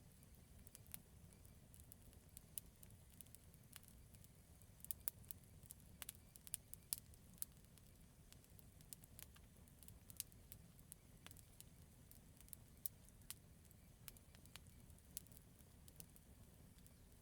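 Quiet campfire crackling: scattered sharp pops and snaps over a steady low rumble, with the pops coming thicker for a couple of seconds in the middle.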